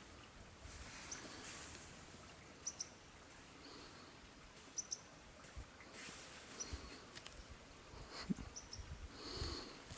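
Faint outdoor ambience with a bird's short, high chirps, several in pairs, every second or two. A few light clicks and rustles come in near the end.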